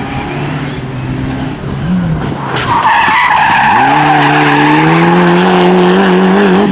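Rally car engine running at high revs, loud, with a tyre squeal starting about three seconds in. The engine then climbs in pitch and holds there under hard acceleration.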